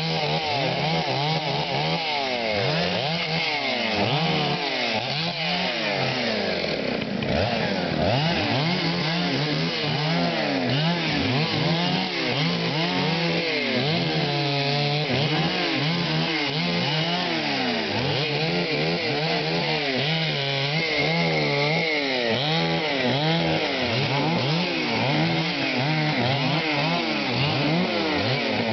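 Two-stroke chainsaw running without a break, its engine pitch rising and falling as it revs and cuts into wood. About seven seconds in the engine bogs down deeply under load.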